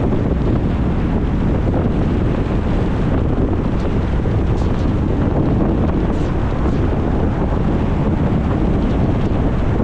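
Steady wind rush on the microphone with the low road noise of a moving car.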